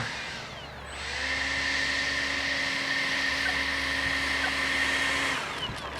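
Electric ducted fans of a FreeWing A6 Intruder RC jet spooling up about a second in, holding a steady whine with a hiss while the jet rolls along the ground, then throttling back near the end.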